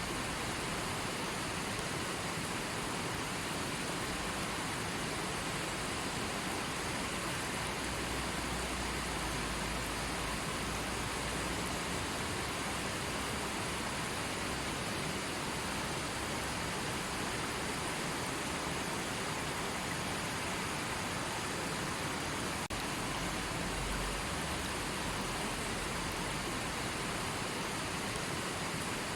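River water flowing and rushing: a steady, even hiss with no breaks.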